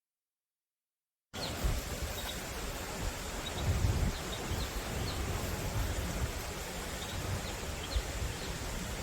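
Outdoor ambience starting suddenly after a second of silence: a steady rushing hiss with gusts of wind buffeting the microphone and faint, short high chirps scattered through it.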